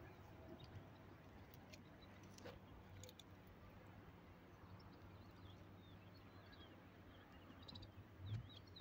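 Near silence outdoors: small birds chirp faintly in the background, mostly in the second half, with a few soft clicks and a low bump about eight seconds in.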